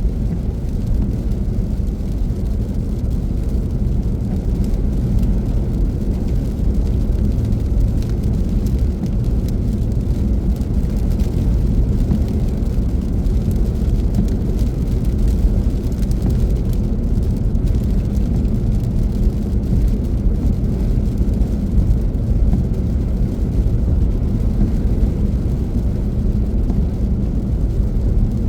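Car driving at a steady speed: a constant low rumble of road and engine noise with no change in pace.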